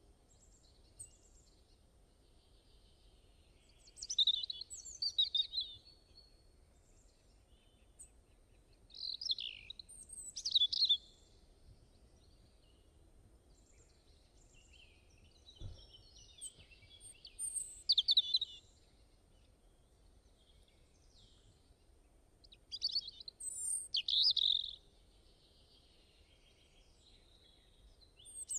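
A songbird singing in short bursts of high chirps and trills, four phrases with pauses of several seconds between them, over a faint steady hiss.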